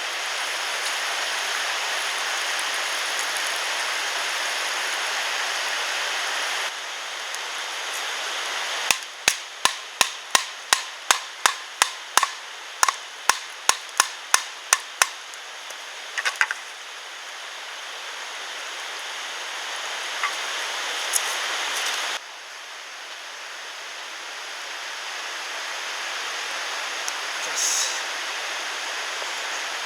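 A run of about sixteen sharp strikes of a tool on wood, two to three a second, like chopping or hammering, over a steady rushing of stream water.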